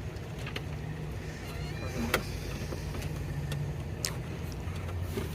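A steady low vehicle hum, with a few sharp clicks and knocks about half a second, two seconds and four seconds in.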